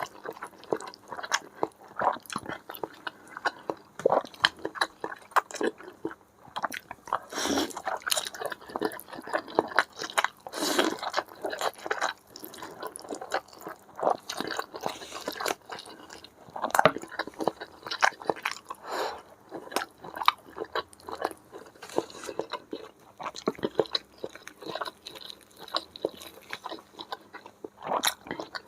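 Close-up eating sounds: a person chewing and slurping spicy instant noodles with meatballs and chicken, with wet smacks and irregular clicks, some louder than others.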